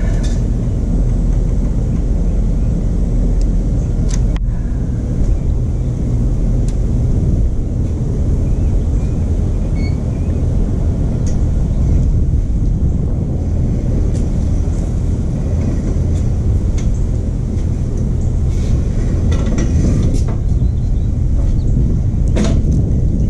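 Small stump grinder's 13 HP Honda engine running steadily, with a few brief sharp clicks over it.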